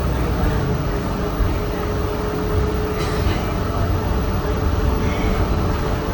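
City bus running under way, heard from inside: a steady low rumble of engine and road with a steady whine above it.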